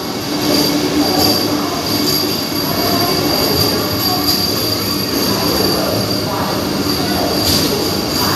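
Vande Bharat Express electric multiple unit coaches rolling past along the platform as the train arrives, a steady rumble with a continuous high-pitched tone and a few faint clicks.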